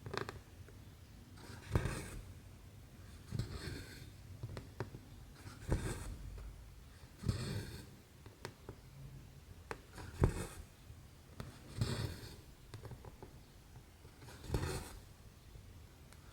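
Stranded embroidery thread being drawn through 11-count cross-stitch canvas, a soft rasping swish about every two seconds, with small ticks from the needle passing through the fabric in between.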